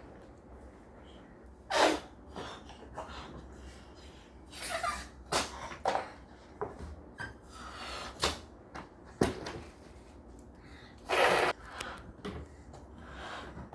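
A string of short, irregular knocks and rustles from objects being handled, the loudest about two seconds in and again near the end.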